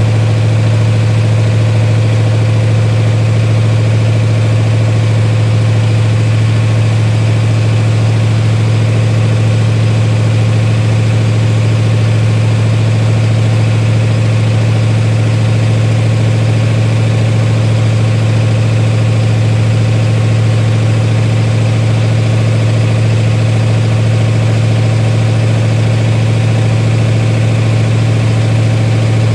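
Freshly rebuilt Mopar 318 small-block V8 running at a steady, unchanging speed during its break-in run.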